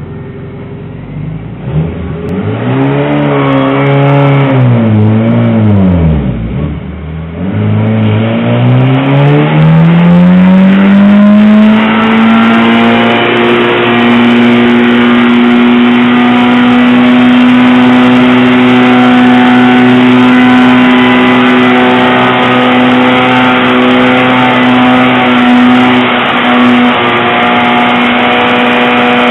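Holden Nova's engine revved up and down, then climbing to high revs and held there with the rear tyres spinning in a standing burnout. The engine is driven very hard, hard enough to overheat.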